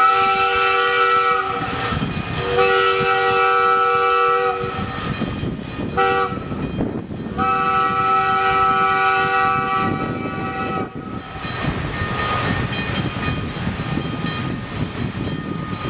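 McKeen motor car's chord horn sounding two long blasts, a short one and a long one, the long-long-short-long grade-crossing signal. After that the car runs on with a steady rumble of wheels on rail.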